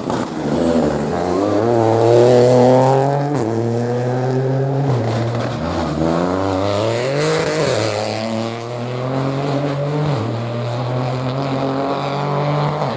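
Rally car engine at high revs, its pitch dropping sharply at each gear change, about four times, and climbing once in between as the car accelerates.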